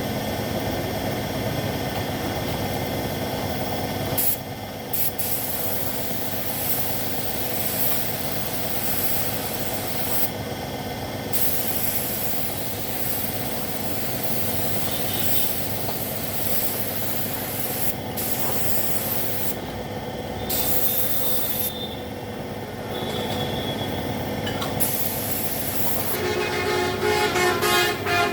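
Paint spray gun hissing in spells of a few seconds, cutting off and starting again, over a steady low hum of running machinery. Near the end a pitched, horn-like tone sounds.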